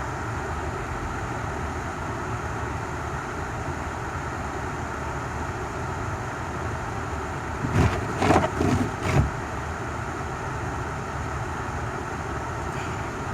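Car running on the road, heard from inside the cabin: a steady low engine and road noise, with a quick cluster of four or five knocks about eight seconds in.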